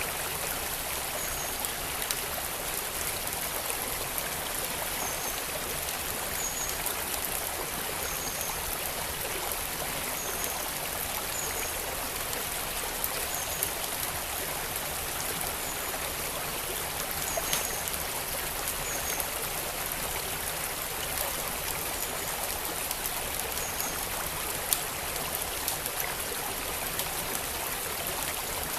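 Steady rush of a flowing creek, with occasional sharp crackles and pops from a wood fire.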